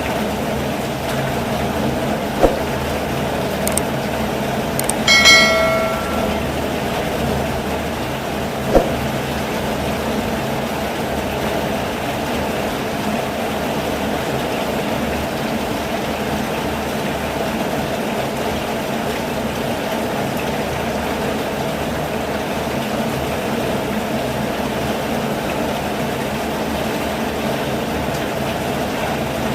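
Steady rain, with a low rumble beneath it. Two short knocks come about two and a half and nine seconds in, and a brief high squeal comes about five seconds in.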